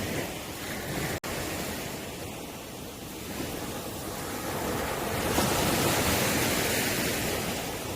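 Ocean waves breaking and washing onto the shore in a continuous rush that eases off, then swells louder again from about five seconds in as a wave comes in. The sound cuts out for an instant about a second in.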